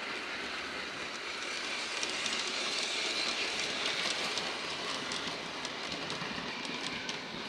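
Bachmann Big Hauler large-scale model train running around its track: a steady running noise of motor and wheels, with short clicks from about halfway through as the wheels cross the rail joints.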